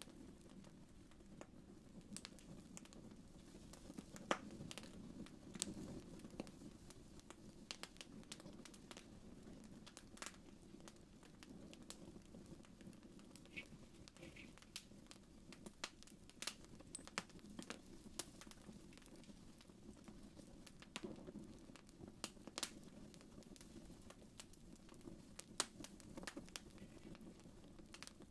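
Faint wood fire crackling, with irregular sharp pops and ticks, a few louder ones, over a low steady hum.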